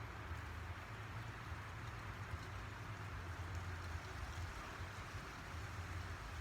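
Faint crumbling and rustling of garden soil as dirt is pushed back in by hand around transplanted plants, over a steady low rumble.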